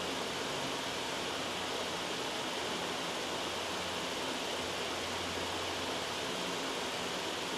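Loud white noise: a steady, even hiss at constant loudness.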